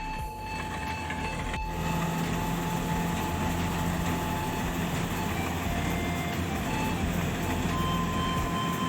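Rice combine harvester's engine running steadily under load, with a constant hum and a few faint held tones above it.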